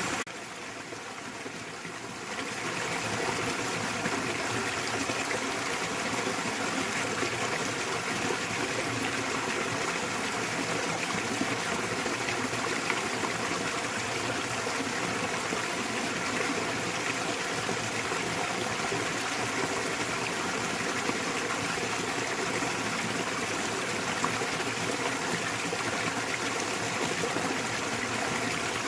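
Small waterfall in a mountain stream, water rushing and splashing steadily. It dips briefly quieter near the start, then runs on evenly.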